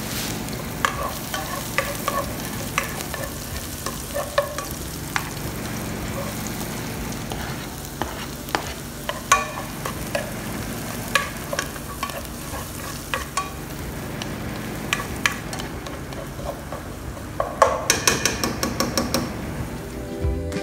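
Chopped garlic and shallots sizzling in hot oil in a pot, with a wooden spoon scraping and tapping against the pan as they are stirred. A quick run of taps comes near the end.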